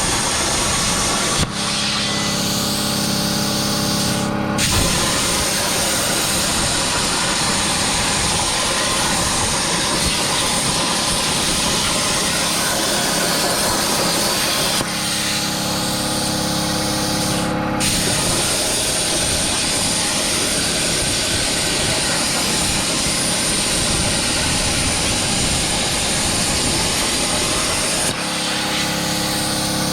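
Plasma cutter torch on a Langmuir Crossfire Pro CNC table cutting: a loud steady hiss of the arc and air. Three times the hiss stops for about three seconds between cuts, leaving a steady multi-tone hum, then the arc fires again.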